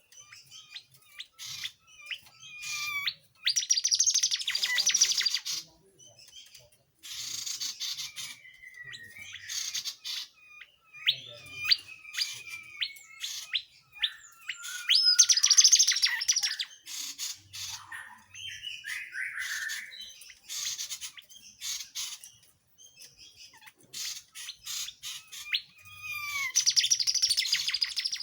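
Tledekan jati songbird singing energetically: dense bursts of rapid chattering trills alternate with single slurred, gliding whistled notes, with short pauses between phrases.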